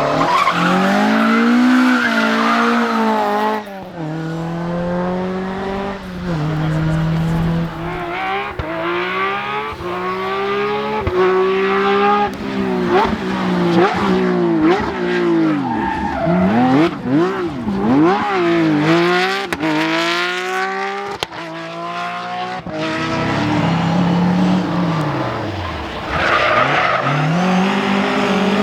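Rally car engines revving hard, their pitch climbing and dropping again and again through gear changes and lift-offs, with cars passing close by.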